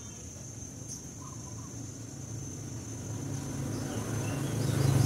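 A steady high insect trill, like a cricket, under a low engine rumble that grows steadily louder as a motor vehicle approaches.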